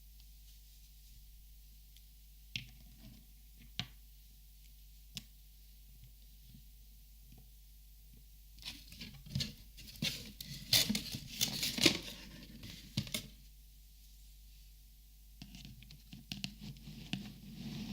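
Close-up handling of plastic markers. A few separate light clicks come first, then a busy flurry of clicks, taps and rustling from about nine to thirteen seconds in, and softer clicking and rustling again near the end.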